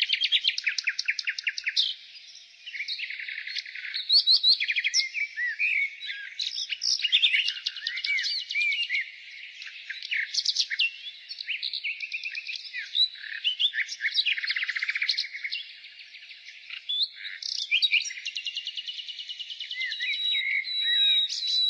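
Nightingale singing a rapid, varied song: fast trills of repeated notes alternate with swooping whistled phrases, with brief pauses between phrases.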